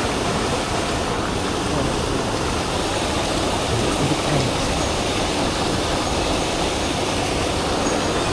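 Mountain stream rushing over rocks: a steady wash of water noise.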